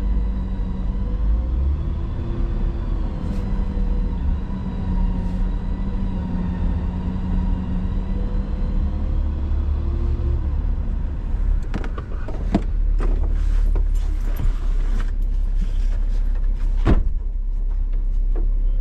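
A vehicle engine running steadily with a low rumble, its pitch easing up and down a little twice. In the last third a run of sharp knocks and clatter joins it, one louder knock near the end.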